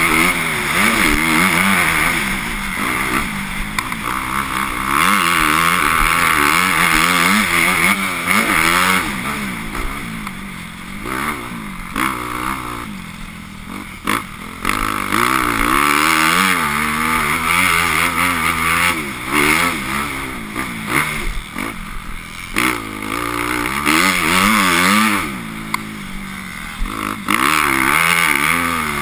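Motocross bike engine being ridden hard, its pitch climbing and dropping again and again as the throttle opens and shuts, with short quieter stretches off the throttle.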